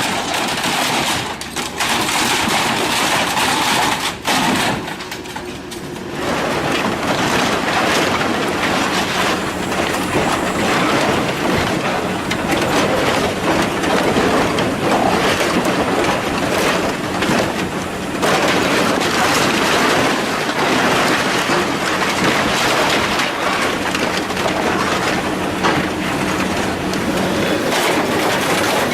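Heavy machinery tearing and crushing scrap metal: a dense, continuous grinding crunch with frequent clanks and bangs.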